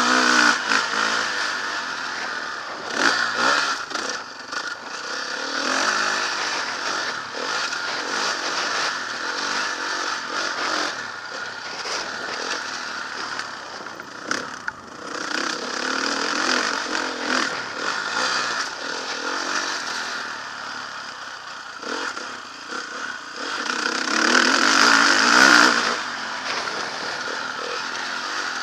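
Motocross dirt bike engine revving up and falling off again and again as the bike is ridden round the track, with rattling and scraping clatter mixed in; the revs swell loudest near the end.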